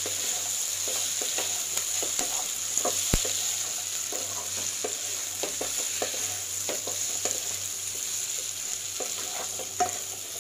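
Fried chicken pieces sizzle in a kadhai as a spatula stirs and tosses them, with frequent scrapes and taps of the spatula against the pan. There is one sharper knock about three seconds in.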